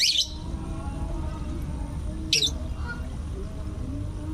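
A bird calling twice in short, high-pitched chirps about two seconds apart, over a steady low background noise.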